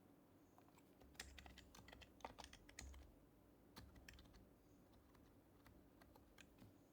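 Typing on an HHKB Professional Hybrid Type-S keyboard, its silenced Topre capacitive keys giving soft, muted keystrokes: a quick burst of presses about a second in, then a few more and scattered single presses toward the end.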